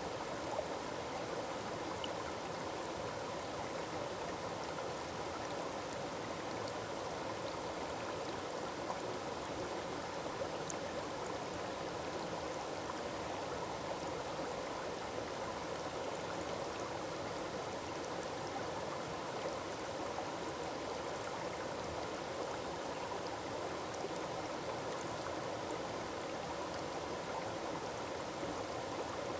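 Forest waterfall: a steady, unbroken rush of falling and splashing water.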